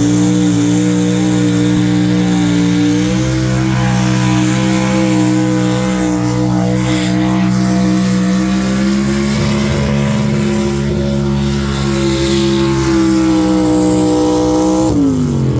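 1974 GMC pulling truck's engine held at high revs under full load through a pull, its pitch steady with a slight climb partway through, then falling away sharply near the end as the revs drop.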